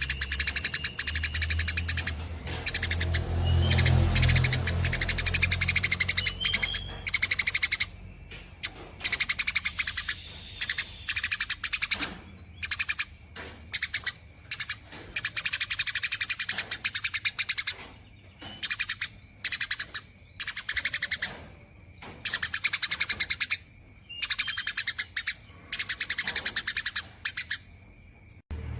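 Eurasian tree sparrow chattering in long, very rapid trills, in bouts of one to two seconds broken by short pauses. A low rumble sits under the first few seconds.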